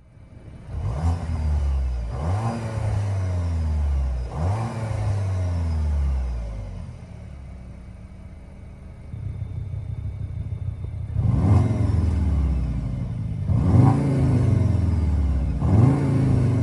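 2025 Skoda Kodiaq RS's 2.0 TSI turbocharged four-cylinder petrol engine and exhaust being revved while standing: six quick blips, each rising sharply and falling back, three in the first few seconds, then a stretch of steady idle, then three more near the end.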